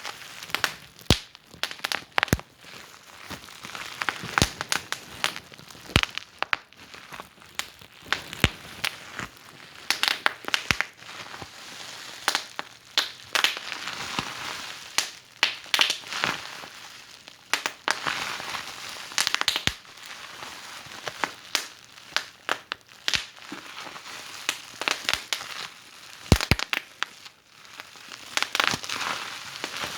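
Fireplace fire crackling: irregular sharp pops and snaps over a soft hiss of burning that swells now and then.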